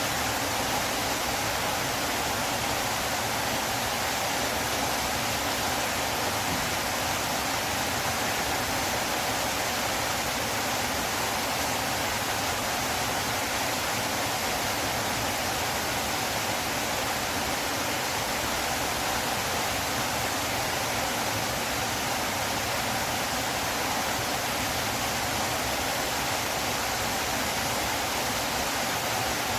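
Water of a flowing river rushing in a steady, unchanging hiss.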